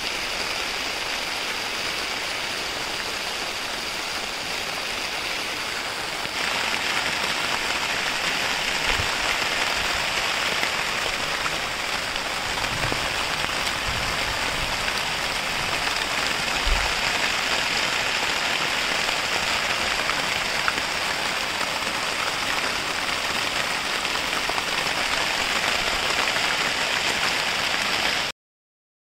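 Steady rain falling, a dense, even hiss. It gets louder about six seconds in and cuts off abruptly near the end.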